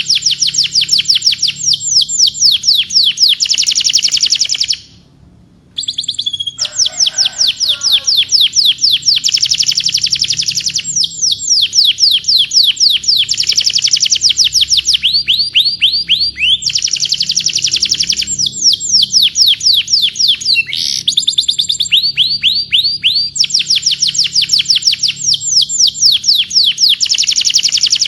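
Canary singing: long rolling trills of fast, repeated high notes, each sliding down in pitch, broken into phrases, with a short pause about five seconds in.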